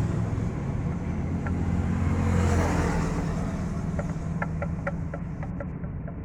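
A motor vehicle engine running with a steady low hum that slowly fades, joined about two-thirds of the way through by a quick run of light clicks.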